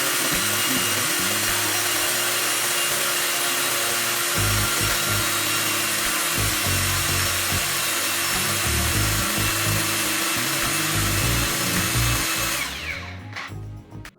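Cordless brushless angle grinder running steadily, then winding down and stopping about a second before the end.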